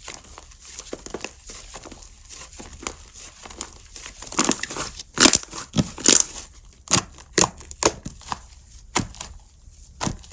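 Slime being handled by hand, squeezed and pressed so it gives off a run of small sticky pops and clicks, soft at first and louder and more frequent from about four seconds in.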